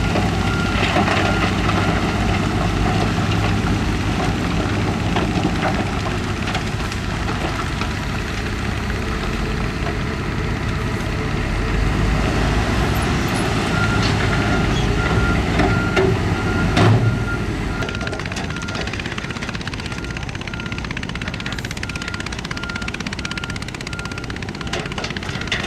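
Diesel heavy equipment working, with engines running under load. A reversing alarm beeps in the first second and starts again about halfway through, and there is one loud clank a little after that.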